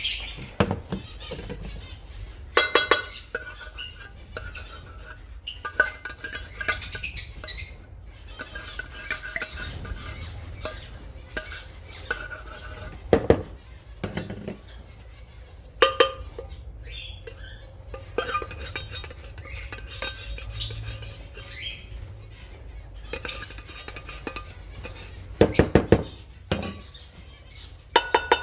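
Dishes and utensils clinking and knocking in irregular sharp strikes, some ringing briefly.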